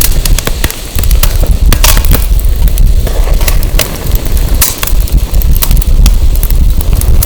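Burning firewood crackling and popping in irregular sharp snaps, over a loud low rumble of wind buffeting the microphone.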